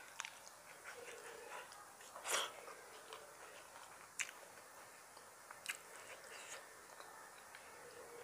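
Close-miked eating sounds of a man eating rice with his fingers: soft chewing with scattered wet mouth clicks and smacks, one louder about two seconds in.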